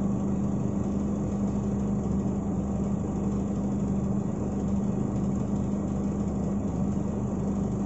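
Scania P340 truck's diesel engine idling, heard inside the cab as a steady, even hum.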